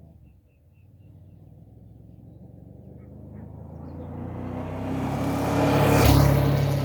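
A motor vehicle engine running with a steady pitch and growing steadily louder, as it approaches or passes close by. It is loudest about six seconds in, then eases off slightly.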